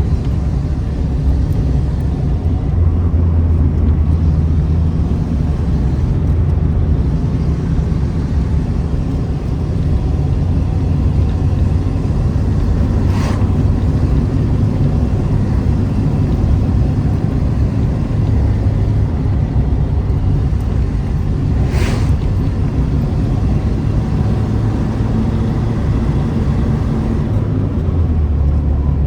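Renault car's loud exhaust giving a steady low rumble with the engine running. It swells a few seconds in and again near the end, and two short clicks come through partway.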